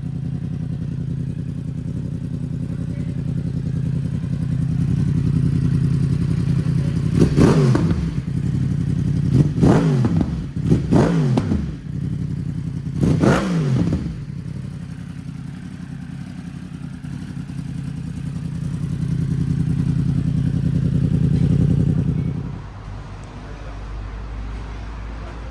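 Yamaha R1M's crossplane inline-four running through an Akrapovic decat pipe and end can: it idles steadily and is blipped four times in quick succession. Near the end the engine sound drops away.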